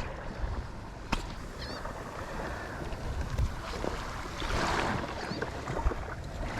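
Wind on the microphone over small waves washing at the water's edge, with a swell of wash about four and a half seconds in and a couple of sharp clicks.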